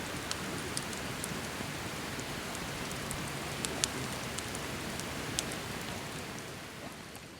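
Wood campfire burning with a steady hiss and scattered sharp crackles and pops, fading out near the end.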